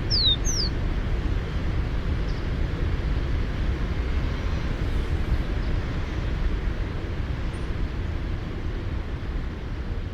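A rufous-collared sparrow gives two quick down-slurred whistles right at the start, over a steady low rumble.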